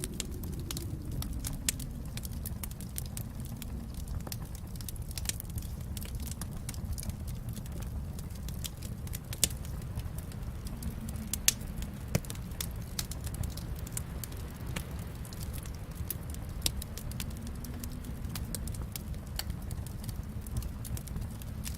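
Wood fire burning in a fireplace: a steady low rumble of flames with irregular crackles and a few louder pops.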